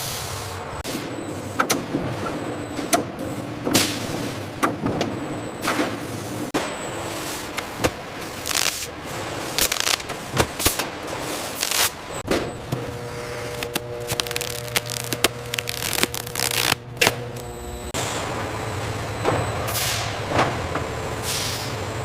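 Food-factory production-line machinery running with a steady hum, broken by frequent irregular clacks and knocks.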